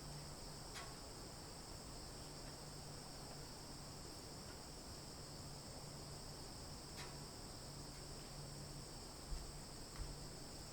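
Faint, steady high-pitched insect chorus like crickets, with an on-and-off low hum underneath. Two soft thumps come near the end.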